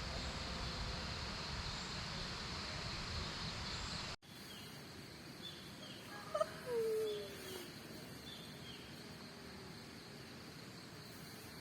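Quiet outdoor morning ambience with faint high bird chirps and one distant bird call about six to seven seconds in, ending in a long falling note. It follows a few seconds of steady hiss that cuts off suddenly.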